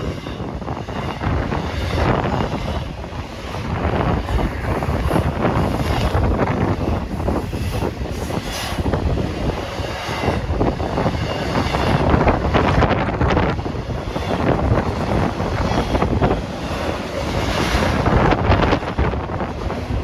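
Norfolk Southern intermodal freight train rolling past: a steady loud rumble with irregular clatter of wheels over the rails, and wind buffeting the microphone.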